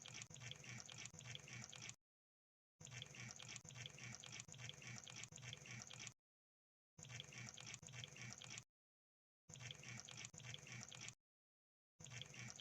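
Crab making rapid, dense clicking sounds, faint, in stretches of about two to three seconds broken by silent gaps of under a second.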